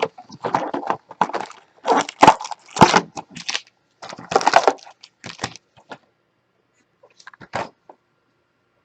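Plastic packaging of a trading card box crinkling and tearing in quick, irregular bursts, then a few light clicks near the end.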